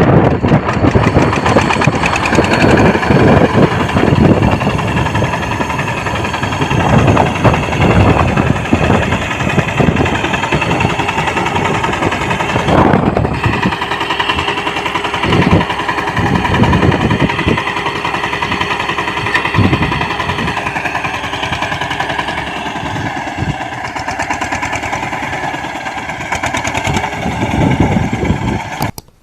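Mini tractor engine running steadily, with irregular low knocks under an even engine note; it cuts off abruptly near the end.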